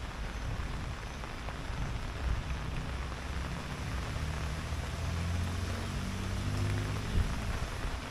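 Steady rain falling, an even hiss. A low hum comes in about halfway through and fades away near the end.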